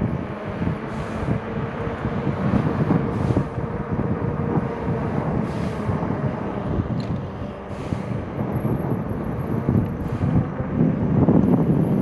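Wind buffeting the microphone and tyre rumble from a moving electric bike, growing louder near the end.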